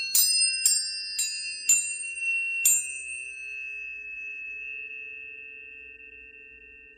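Tuning forks struck five times in quick succession over about three seconds, each strike a bright clang that settles into steady, pure ringing tones. Several pitches sound together, some with a slow waver, and fade gradually.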